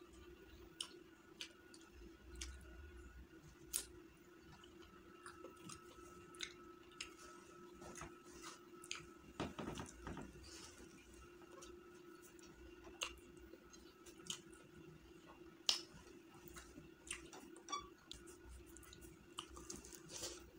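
Close-miked mouth sounds of a man eating biryani rice by hand: quiet chewing with irregular wet clicks and ticks, over a faint steady hum.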